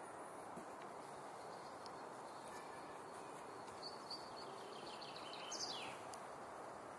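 Faint outdoor ambience, a steady hiss, with a few small bird chirps; the loudest is a short high call sliding downward about five and a half seconds in.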